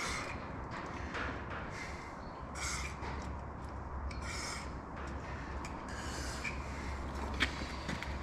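Irregular scraping and rubbing of tight metal engine parts being worked by hand, with a couple of light clicks near the end.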